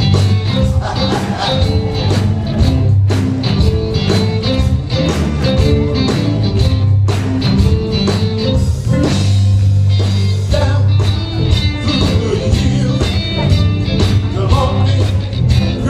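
Live gospel band music with a steady drum beat and a strong bass line, with electric guitar.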